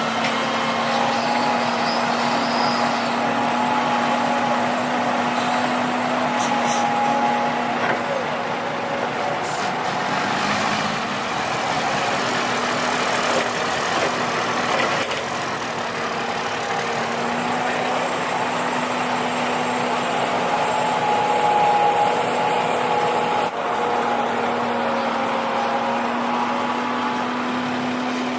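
Heavy diesel engine of earthmoving machinery (excavator or dump truck) running steadily, with a couple of brief sharp noises about a third of the way in.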